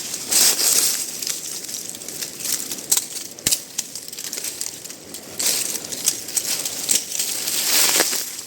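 Dry brush, twigs and leaves crackling and snapping as a person pushes through dense, dry undergrowth on foot. The noise comes in irregular bursts with a few sharp snaps.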